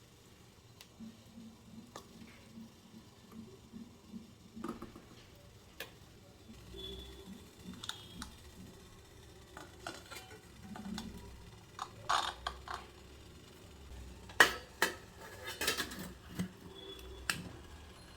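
Kitchen dishes and utensils clinking and knocking in irregular clatters, busier and louder in the second half.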